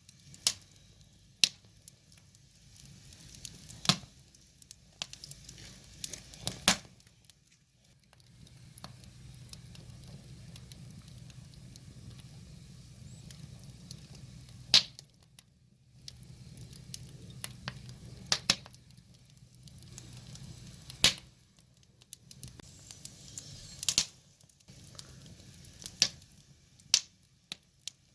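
Wood fire crackling, with sharp irregular pops every second or two, over a low steady rumble that fades in and out.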